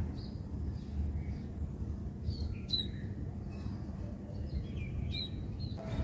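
Birds chirping, a few short high chirps scattered through, over a steady low rumble.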